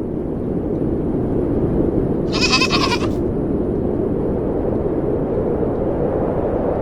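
A goat bleats once, a short wavering call about two and a half seconds in, over a steady low rushing background noise.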